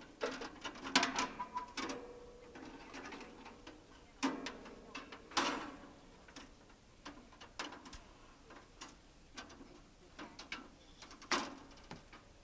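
Irregular metallic clicks, knocks and clanks, a few with a brief ring, as a band blade is fitted onto a Woodland Mills HM126 portable sawmill.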